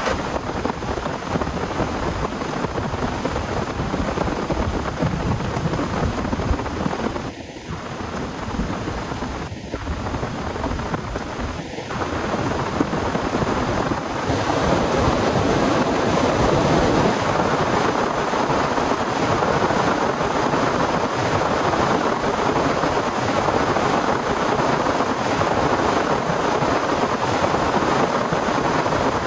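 Torrential rain in a thunderstorm, a steady hiss of heavy rainfall that grows louder about halfway through.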